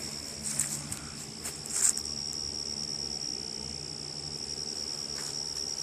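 Crickets chirring in a steady, high-pitched chorus, with a few faint rustles in between.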